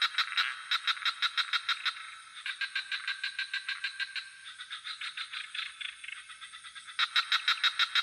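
Frogs calling in rapid pulsed trills of about seven pulses a second, in bouts that swell and fade: loud at first, again after a couple of seconds, softer in the middle, and loud again near the end. A steady high-pitched cricket trill runs beneath them.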